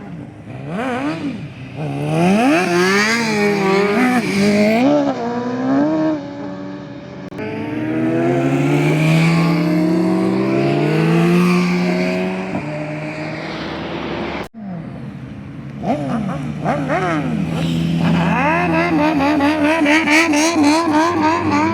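Car engines revved hard for launches, several short clips cut together, the pitch sweeping up and down with each rev. Near the end one engine's pitch bounces quickly up and down several times a second.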